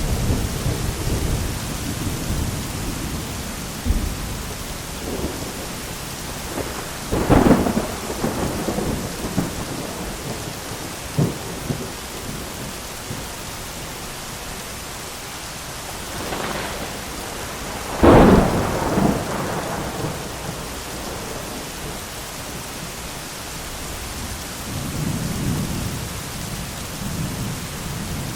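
Thunderstorm: steady rain with rolling thunder. Two sharp, close thunder cracks come about 7 seconds in and, loudest, about 18 seconds in, each followed by rumbling.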